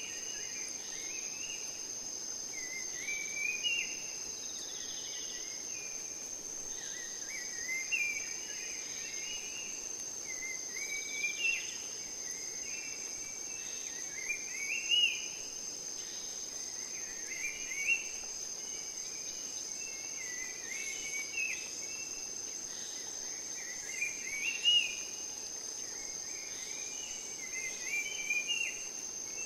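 Rainforest ambience: a steady, high-pitched insect drone, with a bird singing short chirping phrases every three or four seconds.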